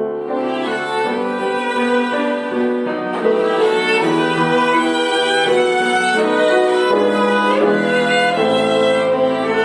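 A violin ensemble playing a lyrical song melody on bowed strings, with held notes that change about once a second.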